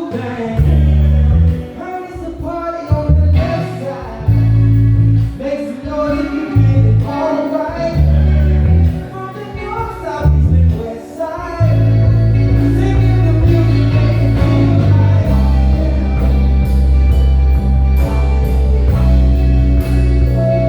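Live soul band playing with bass guitar, drums and keys under a melodic lead line. For the first eleven seconds or so the bass plays short, punchy stop-start hits, then settles into a steady, sustained line.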